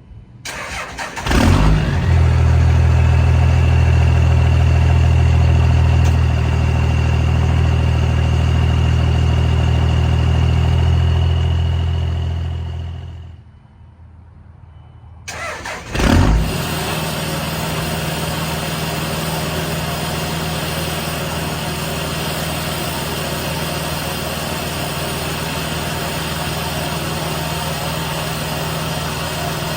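Cummins 5.9-litre inline-six turbo-diesel in a 2001 Dodge Ram 2500, cranked and started, idling for about eleven seconds, then shut off and winding down. After a couple of seconds it is cranked and started again and idles steadily with a quieter, less deep note, the run with the exhaust brake engaged.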